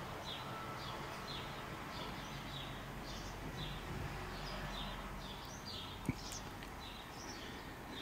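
Birds chirping in the background: short, high, falling chirps repeating about once or twice a second over a steady outdoor hiss. One sharp click about six seconds in.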